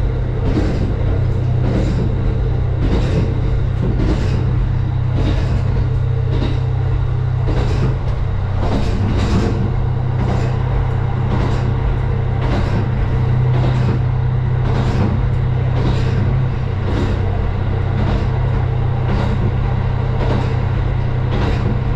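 Steady low engine drone of a vehicle heard from inside, with regular sharp clicks about twice a second over it.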